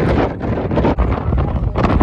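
Strong wind buffeting the microphone, a loud, gusty rumble.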